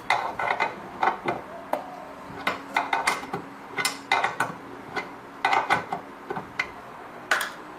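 Small metal tools and parts clinking and knocking against each other, in irregular light strikes, while a washing machine is worked on.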